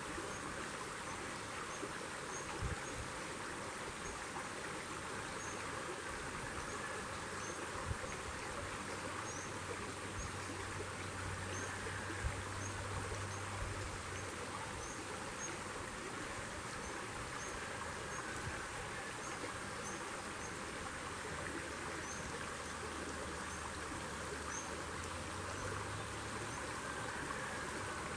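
Outdoor nature ambience: a steady rushing hiss like a flowing stream, with insects and a faint high chirp repeating about once a second. A low hum fades in and out partway through.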